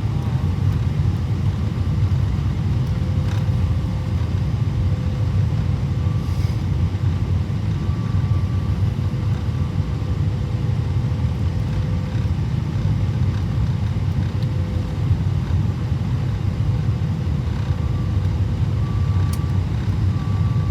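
Steady cabin noise inside a Boeing 777-300ER airliner on descent, heard from a seat just behind the wing: an even, deep rumble of airflow and engines, with a faint steady hum above it.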